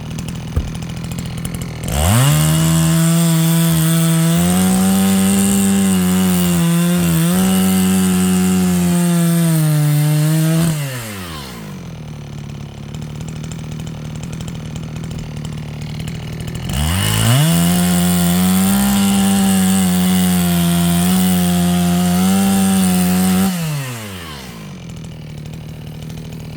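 Chainsaw engine revving up and held at high speed while cutting firewood logs, twice, each cut lasting several seconds, dropping back to a low idle between and after the cuts.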